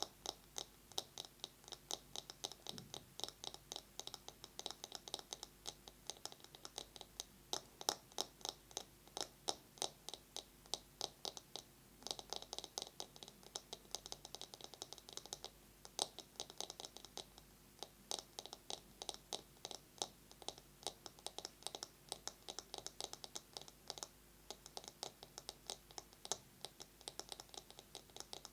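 Fast fingernail tapping on a bamboo massage brush: sharp wooden clicks, many a second, in quick unbroken runs.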